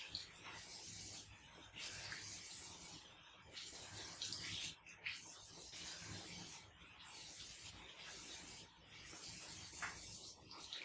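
Scrubbing by hand: a rasping hiss of rubbing strokes, about one a second.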